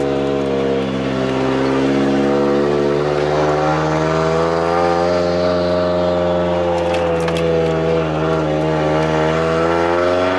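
Drift car's engine, heard from inside the cabin, running at fairly steady, moderate revs as the car is driven gently to warm the diff and gearbox. The pitch dips and rises a little, with a few faint clicks about seven seconds in.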